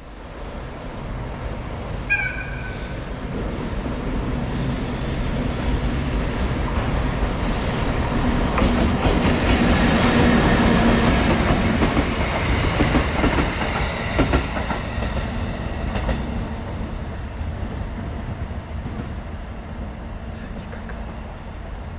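EF64 electric locomotive hauling a train set past at close range: wheels rumbling and clattering over the rail joints, building to a peak about halfway through and fading as it moves away. A brief horn toot sounds about two seconds in.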